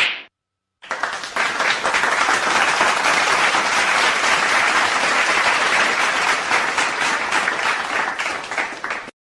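Crowd applauding: many hands clapping densely and evenly, starting about a second in and cutting off suddenly near the end.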